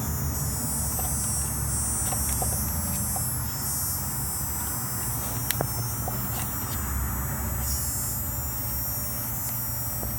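Car engine running at idle with a steady low rumble, under a faint high-pitched singing whine from split ferrite cores clamped on the Innovate LC-2 wideband controller's wiring. The singing is the sign of electrical noise that the ferrites are not stopping.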